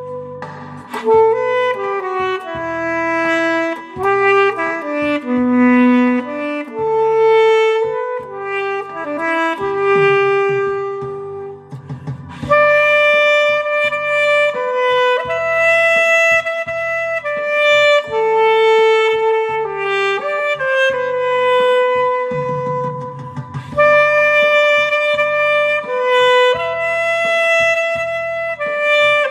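Alto saxophone playing a slow, sustained melody line over a backing track with a steady bass pulse.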